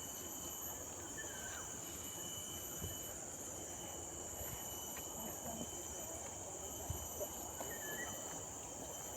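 Steady high-pitched chorus of tropical forest insects, several constant tones layered together, with a couple of faint chirps and soft knocks.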